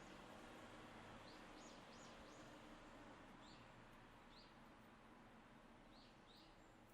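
Small songbirds calling faintly: several short, high chirps scattered through, over a steady low hiss.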